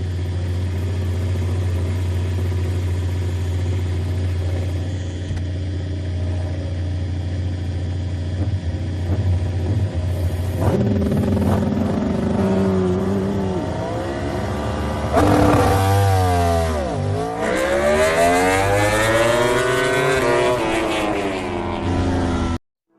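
MotoGP race motorcycles running at the circuit: a steady low drone, then from about ten seconds in engines rev with their pitch falling and climbing as the bikes brake, shift and accelerate. The second half is loudest.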